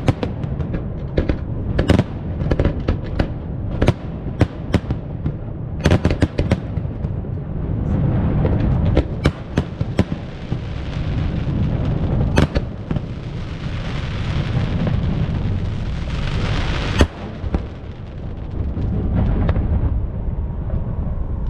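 Fireworks display: a rapid, irregular string of sharp bangs and booms for the first dozen seconds, then a few seconds of dense crackling ending in one sharp crack, over a steady low rumble.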